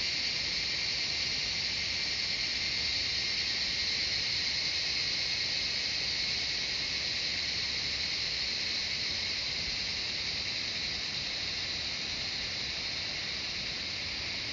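Cicadas singing in a steady, continuous high-pitched chorus with no breaks.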